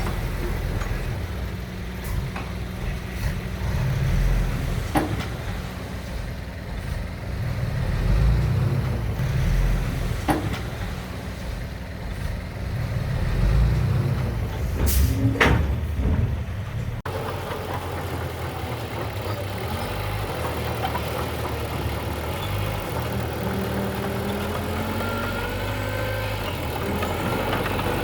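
Diesel engine of heavy earthmoving machinery running and surging under load, with a few sharp knocks every few seconds. About two-thirds of the way through, the sound changes abruptly to a steadier engine run with faint rising and falling whines.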